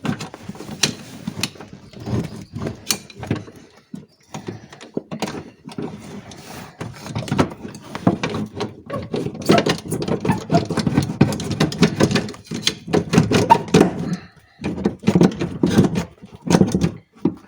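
Metal scissor-type window regulator being wrestled around inside a car door, with rapid, irregular clanking, rattling and scraping against the door's sheet metal.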